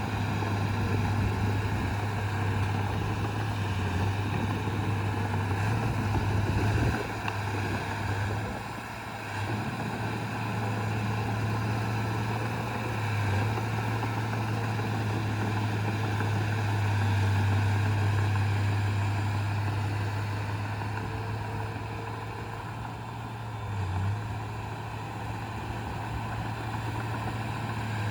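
Diesel engine of heavy earthmoving equipment running steadily as a deep drone, dipping briefly a few times.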